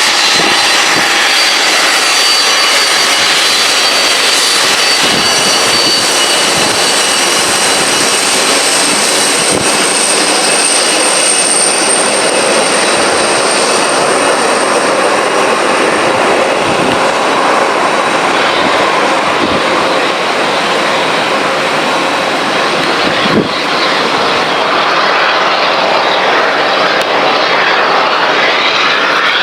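Boeing 737-800's turbofan jet engines running loud and steady, a dense rush with a high-pitched fan whine layered on top; the whine fades out in the second half, and there is a brief knock about 23 seconds in.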